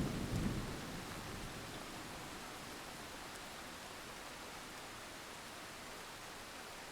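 Steady rain falling with an even hiss, with the tail of a thunder rumble dying away in the first second.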